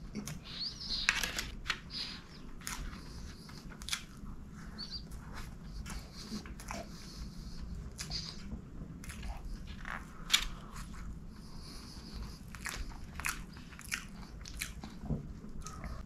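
Close-miked chewing of soft chocolate gateau: wet mouth smacks and irregular sharp clicks, with two louder clicks about a second in and about ten seconds in.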